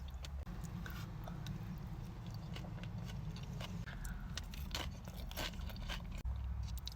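Close-miked chewing and biting of food, with many short, sharp clicks and crunches over a steady low hum.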